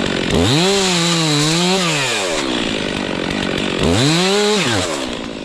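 Two-stroke chainsaw revved to full throttle twice and let back down to idle. The first burst is held about a second and a half, the second about a second.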